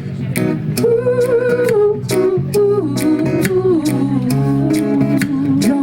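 Acoustic guitar strummed in a steady rhythm, under a woman's voice humming a wordless melody line.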